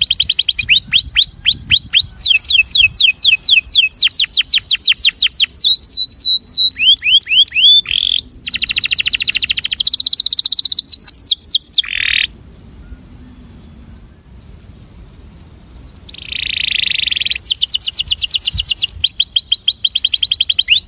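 Male domestic canary singing a breeding song: fast rolling trills of repeated falling notes that change speed from one phrase to the next. A pause of about four seconds midway ends in a short harsh, buzzy phrase before the trills resume.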